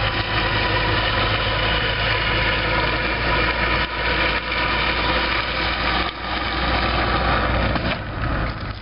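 A vehicle engine running steadily at low speed, with a constant low hum under road and tyre noise.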